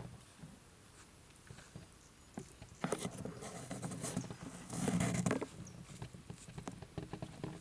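Irregular rustling and scraping with scattered light clicks and knocks, loudest from about three to five and a half seconds in.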